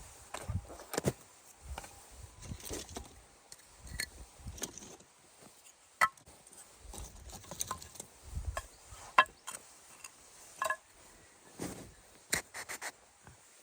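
Camping gear being handled: irregular knocks and scrapes, with a few short ringing metal clinks.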